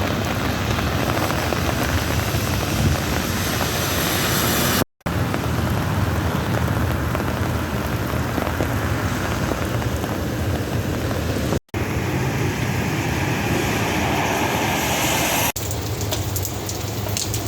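Light, steady rain falling, an even hiss with a low rumble underneath, broken twice by brief silent gaps where the recording cuts.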